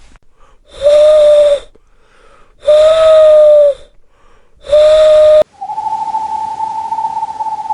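Recorded owl calls: three loud, wheezy, whistle-like calls about a second each, evenly spaced. About five and a half seconds in it switches abruptly to a different owl giving one long, even trill on a single pitch.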